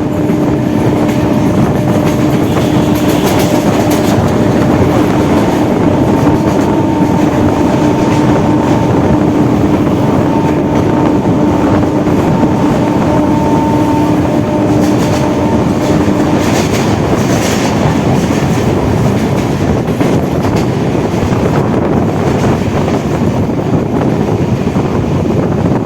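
Electric suburban local train running at speed, heard from on board: a loud, steady rush of wheels on the rails. A steady hum runs underneath and drops away about two-thirds of the way through.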